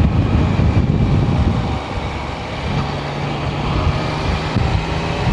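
Yamaha Tracer 900 GT's three-cylinder engine running on the move, with rumbling wind and road noise; about two seconds in the rumble eases and the engine settles into a steady, even note.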